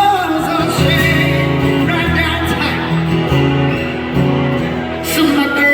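Live band music: guitars playing over held bass notes.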